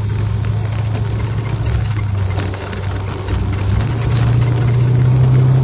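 Vehicle engine idling, heard from inside the cab, with a steady low hum that steps up a little in pitch about four seconds in and faint scattered ticks over it.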